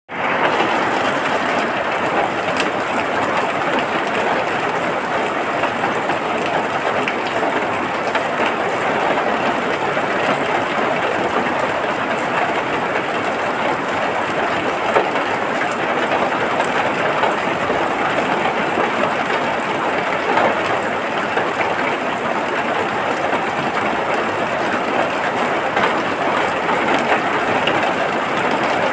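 Steady rain falling, an even unbroken hiss of drops with no pauses.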